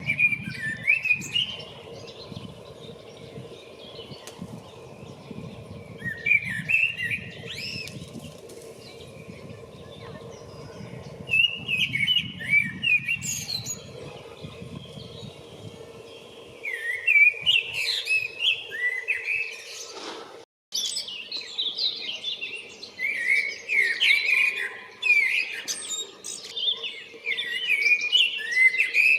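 Male common blackbird singing its spring song to attract a mate: warbling phrases of a second or two, separated by pauses in the first half and coming almost without a break near the end.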